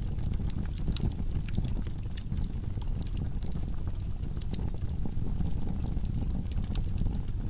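Wood fire of burning logs in a fireplace: a steady low rumble of the flames with frequent sharp crackles and pops.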